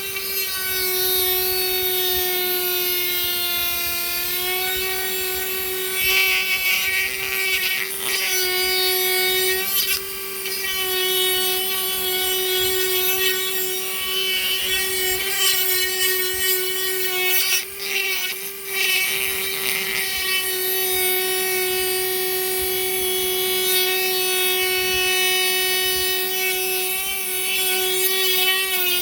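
Small high-speed power tool motor whining steadily as it works wood, its pitch sagging slightly for a moment about four seconds in. Scratchy cutting or sanding noise rises over it a few times, and the motor briefly cuts out near the middle.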